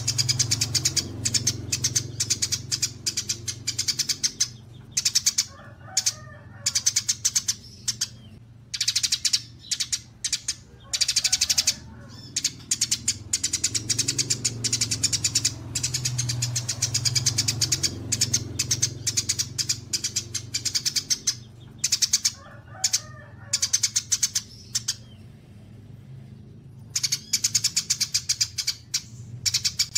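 Small songbirds chirping and twittering in fast, high, harsh runs broken by short pauses, now and then joined by a lower, slower call. It is a looped mastering recording of kapas tembak, cililin and fighting Eurasian tree sparrows, over a steady low hum.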